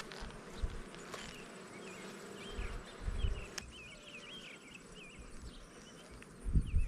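Honeybees buzzing around an opened hive, a steady hum, with brief low rumbles about three seconds in and again near the end.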